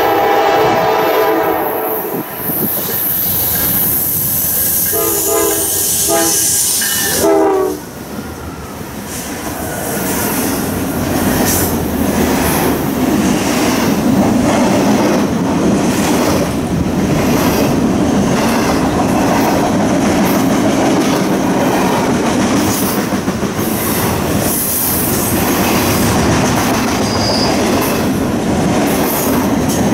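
A train's air horn sounds a long blast, then shorter blasts about five and seven seconds in. The train then passes close by with a steady rumble and its wheels clacking over the rail joints.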